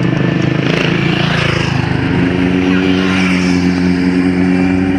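A car engine revving as the car passes. Its note is rough for the first two seconds, then settles into a steady, loud drone.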